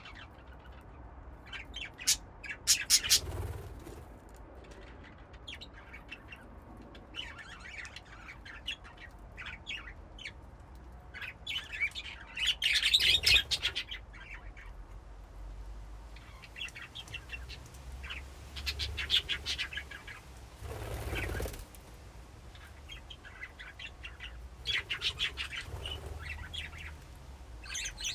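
A flock of budgerigars chirping and chattering in irregular bursts of quick high chirps. Three times, a brief noisy flurry is mixed in.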